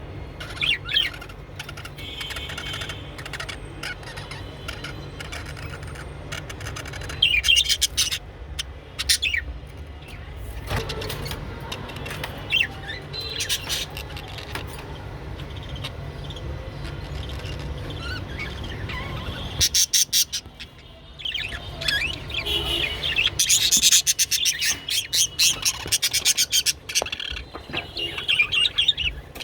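Budgerigars chirping and chattering in short repeated calls, with several bursts of rapid clicking through the chatter.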